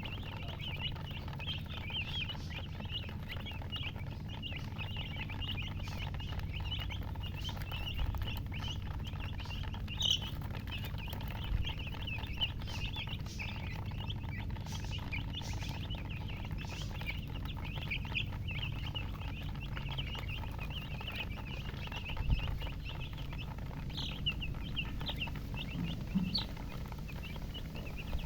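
Baby chicks peeping constantly, many short high chirps overlapping one another, over a low steady hum.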